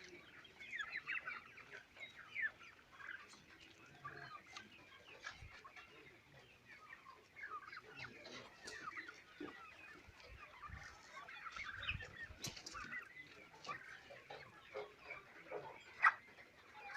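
A flock of layer pullets calling, many short overlapping calls, with one louder call about sixteen seconds in.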